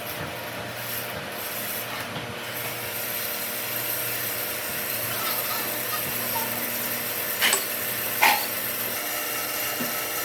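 Wood being worked with a hand or power tool, a steady rubbing, scraping noise, with two sharp knocks near the end.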